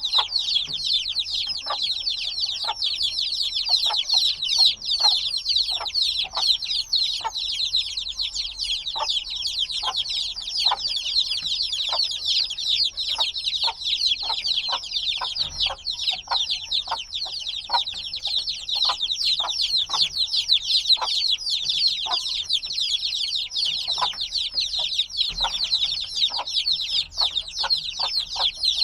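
A brood of newly hatched chicks peeping nonstop: many high chirps, each sliding down in pitch, overlapping in a constant chorus, with short, lower calls scattered among them.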